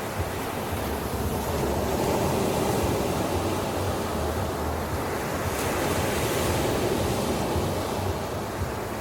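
Ocean surf washing on a beach: a steady rush of breaking waves that swells twice and eases off again.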